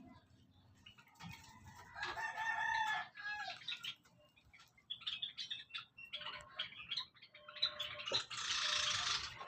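Java sparrows calling in a series of short, chirping notes in several bouts, with a loud burst of noise lasting about a second near the end.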